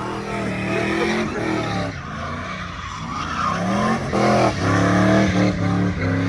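A truck engine revving up and down with tires squealing, as in a burnout.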